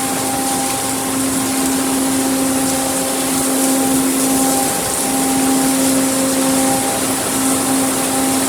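Autec in-bay automatic car wash running: the steady hum of its pump motor under the hiss of water spray.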